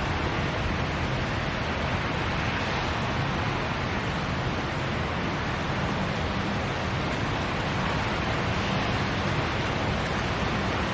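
Steady rain falling, a constant even hiss with no separate drops or gusts standing out.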